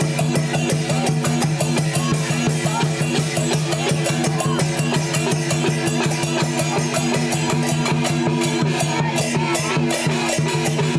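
Chinese dance percussion band of drums, gongs and cymbals beating fast without a break, over a steady low hum.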